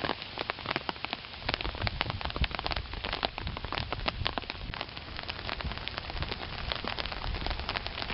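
Rain falling on an umbrella held overhead: a steady hiss dotted with many sharp ticks of individual drops striking it.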